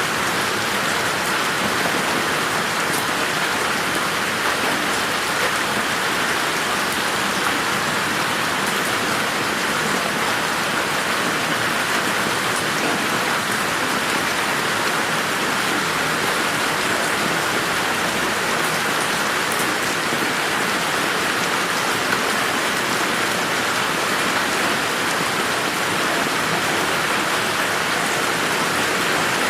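Steady rain falling on a garden, an even hiss of many drops with no thunder.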